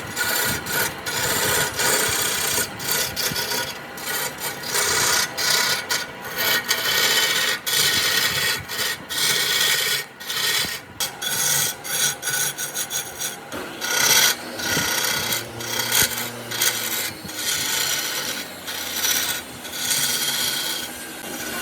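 A tool scraping against wood in a continuous run of uneven strokes.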